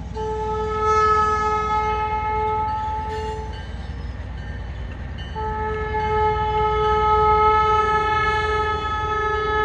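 Ellis & Eastern locomotive air horn sounding two long blasts, a chord of steady tones: the first for about three and a half seconds, the second starting a little past halfway and still going at the end. A low steady rumble runs underneath.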